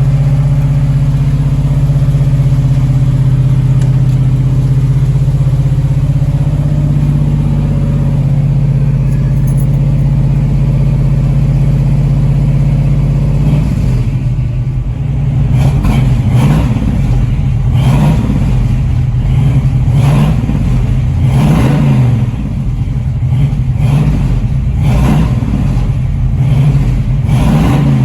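Carbureted 502 big-block Chevy V8 in a 1969 Camaro idling while it warms up on the choke after a cold start. It runs steadily at first, then about halfway through the idle turns uneven, with a surge every second or two.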